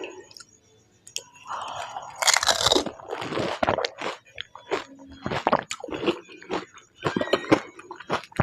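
Crisp panipuri shells being bitten and chewed close to the microphone. After a quiet first second comes a loud crunch of a shell breaking, then a run of crackly chewing crunches.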